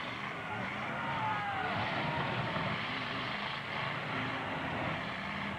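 Truck engines running and revving in a demolition derby, a steady dense din with pitch rising and falling.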